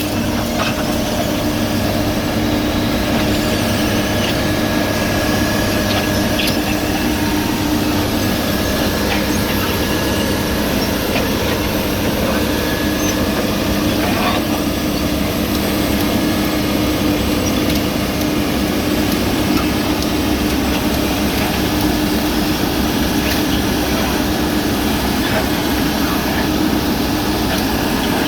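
Heavy road-paving machinery running steadily on diesel, its engine note holding level, with a thin high whine over it and a few light clanks.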